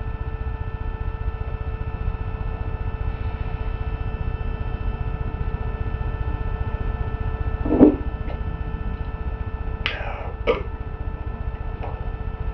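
A steady low hum and rumble runs throughout. About eight seconds in a man makes a single short throat sound, a hiccup or gulp, and a couple of seconds later two brief breathy sounds follow.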